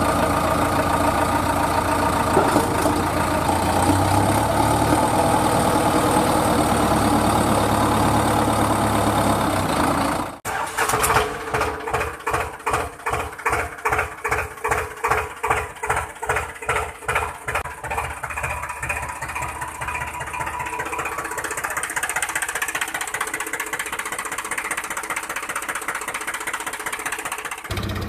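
Tractor engine running. About ten seconds in, the sound changes abruptly to a pulsing beat, roughly three pulses a second, which evens out into a steadier run for the last several seconds.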